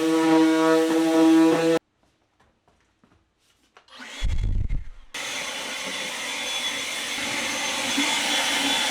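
Woodworking power tools running in short edited clips. A steady motor whine cuts off abruptly about two seconds in. After a near-silent gap with a low thump, a steady, noisier tool sound starts about five seconds in.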